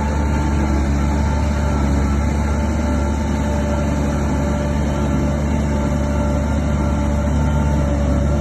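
Heavy diesel engine of earthmoving machinery running at a steady speed, a constant low rumble with a steady hum.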